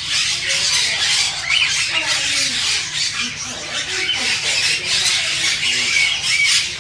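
Many caged parrots chattering and squawking together: a dense, unbroken din of overlapping high chirps and calls.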